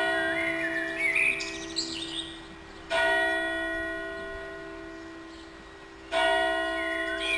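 A single church bell tolling slowly, struck about every three seconds, each stroke ringing on and slowly dying away. Small birds chirp briefly near the start and again near the end.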